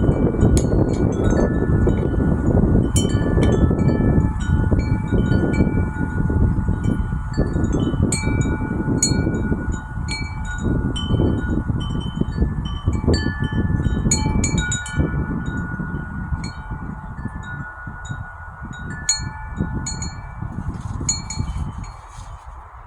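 Wind chime swinging in a breeze, its tuned tubes struck at irregular moments and ringing on in several overlapping tones. Under it, wind rumbles on the microphone and dies down near the end.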